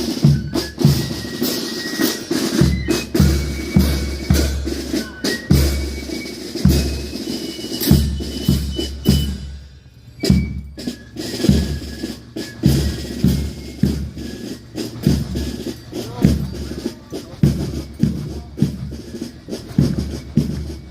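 Marching band drums playing a steady march beat: a bass drum thumps regularly under snare strokes. The drumming drops off briefly about ten seconds in, then picks up again.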